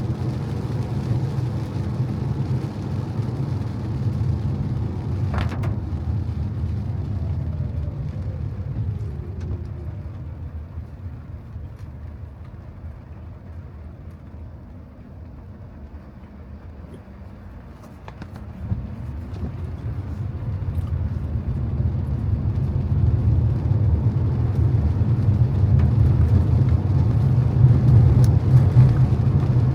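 A car driving, its low road and engine rumble easing off with a falling whine as it slows to a stop. About eighteen seconds in it builds again as the car pulls away and gathers speed.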